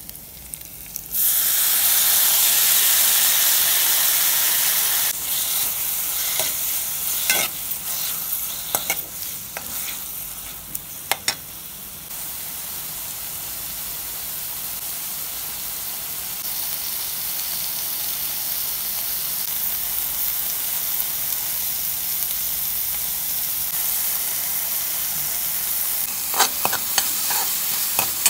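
Chopped tomatoes dropped into hot oil, sizzling loudly about a second in, then a steady frying sizzle that eases off. A steel spoon clicks and scrapes against the pan in short runs midway and again near the end as the mixture is stirred.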